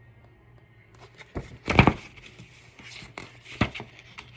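Paper book page being turned and handled: a few short knocks and rustles, the loudest a little under two seconds in and a smaller one near the end.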